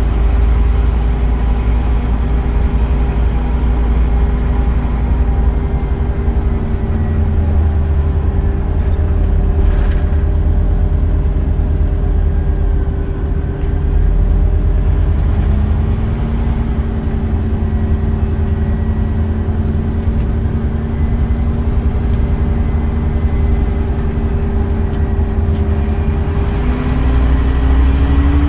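Scania Omnicity single-deck bus running, a steady low engine rumble with a pitched whine that fades out about seven seconds in, comes back about halfway through and rises near the end.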